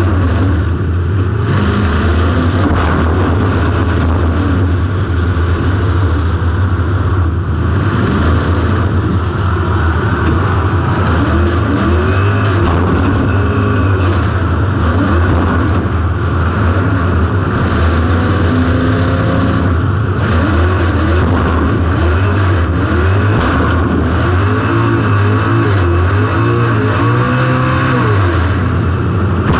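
Demolition-derby car's engine, heard from an on-car camera, revving up and down again and again under hard throttle, with a constant heavy engine drone underneath.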